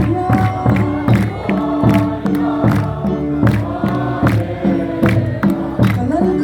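A group singing a hymn in unison with held notes, over a steady drumbeat.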